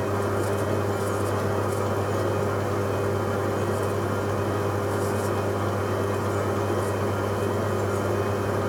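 Hoover Logic 1300 washing machine on a high-speed spin, a steady, even hum that doesn't change.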